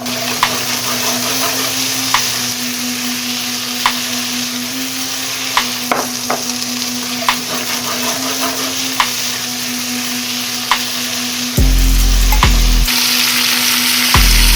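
Food sizzling in a hot frying pan as it is stirred, with a utensil clicking against the pan about once a second. Near the end a much louder low drone cuts in.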